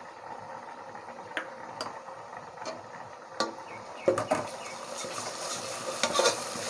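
Fried onions with ginger-garlic paste just added sizzling gently in an aluminium pressure cooker, with a few light spoon taps. From about four seconds in, a metal slotted ladle stirs the mixture, clinking and scraping against the pot as the sizzle grows louder.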